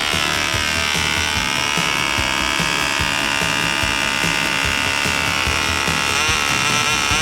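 A .049 model glow engine running at a high, buzzy whine, its pitch wavering and sliding near the end as its load changes, with background music and a steady beat.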